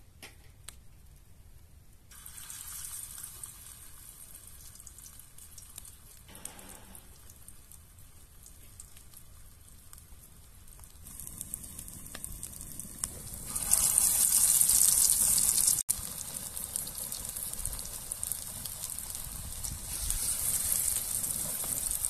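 Kotlet patties of ground meat and potato sizzling as they fry in hot oil in a pan. The sizzle comes in about two seconds in, swells from about eleven seconds, is loudest around fourteen to sixteen seconds in, where it breaks off abruptly for an instant, and stays strong to the end.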